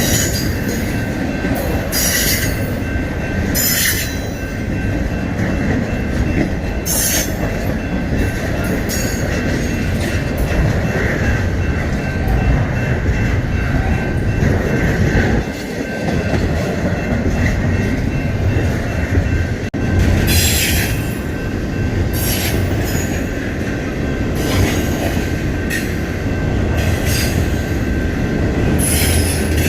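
Freight train rolling past: a continuous heavy rumble of cars on the rails, with a thin steady high squeal from the wheels and short sharp bursts of wheel screech and clatter every second or two.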